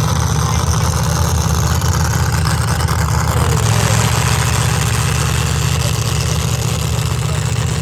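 Loud, steady engine noise of a pulling truck running hard during a truck pull, deep and dense, easing off a little near the end.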